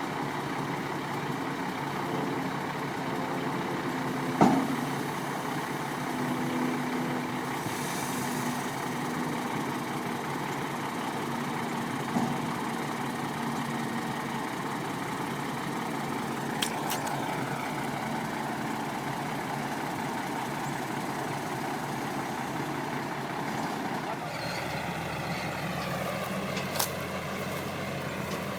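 Ford tandem-axle dump truck's engine idling steadily, with a few sharp clicks and knocks over it; the engine note shifts near the end.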